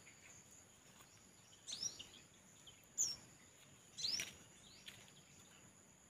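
Small bird giving three short, high chirps about a second apart, over a steady high-pitched insect drone.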